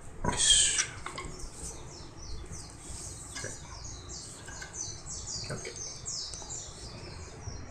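Birds chirping over and over in short, high, falling notes, with one brief loud burst of noise about half a second in.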